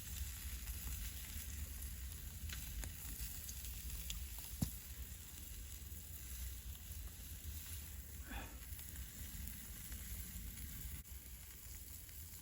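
Wild boar kebabs sizzling over an open campfire, a steady hiss, with a single sharp crack about a third of the way through.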